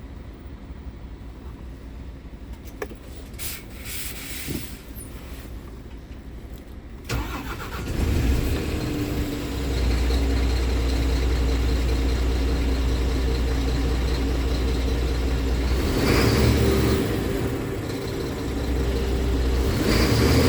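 Scania R tractor unit's diesel engine starting about seven seconds in, then idling with a steady low rumble that swells briefly twice, around the middle of the second half and near the end.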